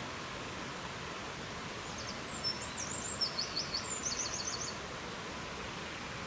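A forest songbird sings a short phrase of high chirps ending in quick trills, from about two seconds in until nearly five. Behind it runs a steady rushing noise.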